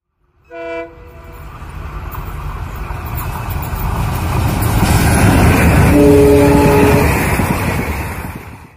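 Express passenger train hauled by a WDM3D diesel locomotive approaching and passing close by. There is a short horn blast about half a second in, then the rumble of the engine and of wheels on rail grows louder. A second horn blast of about a second sounds around six seconds in as the coaches rush past, then the noise falls away and cuts off near the end.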